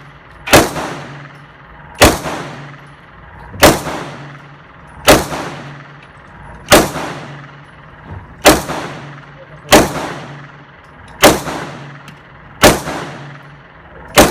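Gunshots fired one at a time at a slow, even pace, about one every second and a half, some ten shots in all, each followed by a ringing echo that fades away.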